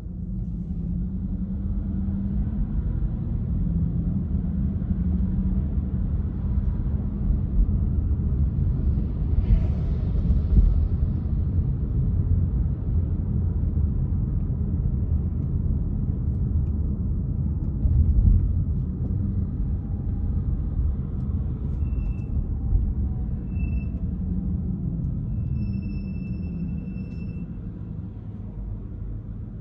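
Car driving, a steady low rumble of engine and tyres on the road. A few short high-pitched tones sound in the second half.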